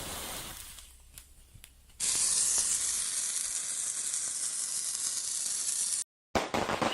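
Cartoon sound effect: a steady hissing sizzle starts suddenly about two seconds in and cuts off abruptly four seconds later.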